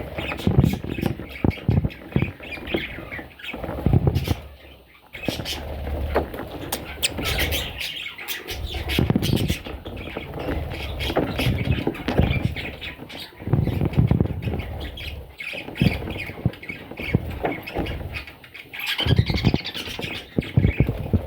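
Baby budgies squawking in rasping bursts, mixed with frequent clicks and low bumps and rustles close to the microphone.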